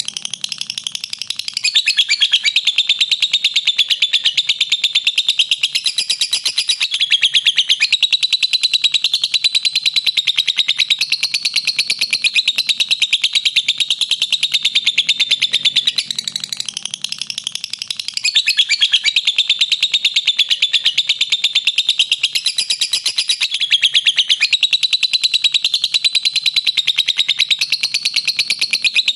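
Lovebird's long 'ngekek' song: a shrill, rapid, unbroken chatter of repeated notes, with brief lulls near the start and about halfway through.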